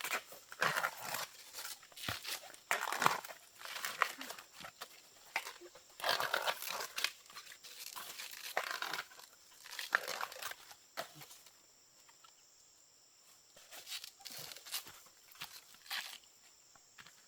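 Irregular rustling, crackling and tearing noises, as of dry material being handled or torn, with a lull of a few seconds past the middle.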